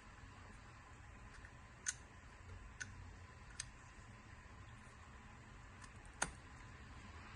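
Four sharp plastic clicks as a Mercedes-Benz E-Class (W213) smart key fob is handled during a battery change; the last, about six seconds in, is the loudest.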